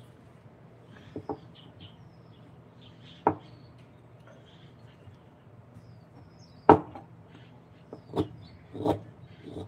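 Sharp wooden knocks at irregular intervals, a pair of light ones early, then single louder strikes, the loudest about two-thirds through and two more near the end, with faint high chirps between them.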